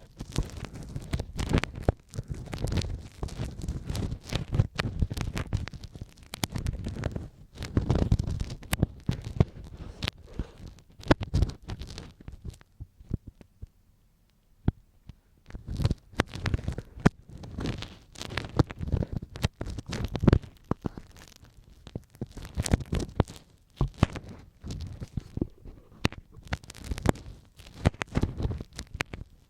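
Ear pick scraping and scratching close to the microphone in ear-cleaning ASMR: dense, crackly strokes in clusters, with a pause of a couple of seconds about halfway through.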